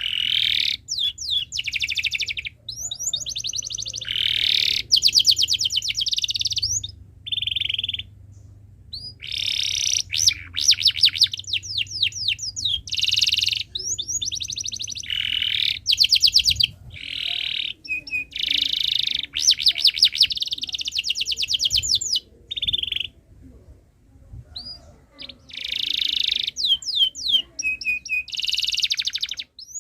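Domestic canary singing: a series of short phrases of fast trills and rapid repeated chirps, with quick pitch sweeps, each phrase broken off by a brief pause.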